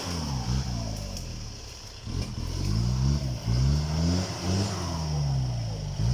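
Isuzu 4JB1 four-cylinder turbo-diesel engine being revved in a series of quick throttle blips, its pitch rising and falling several times, with the turbo fluttering as the throttle is released.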